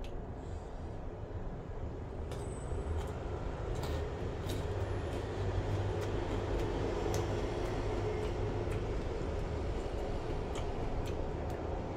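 Crisp-fried chicken skin being chewed, with irregular sharp crunches and crackles, over a steady low rumble.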